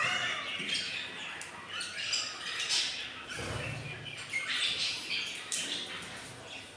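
Budgerigars squawking and chattering in short, scratchy calls, with a brief low thump about halfway through.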